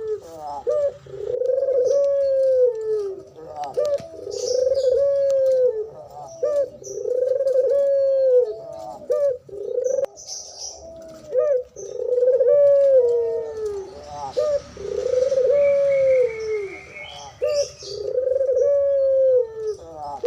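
Doves cooing over and over: a long arching coo about every two seconds, each led in by short clipped notes, with faint high chirps from smaller birds above.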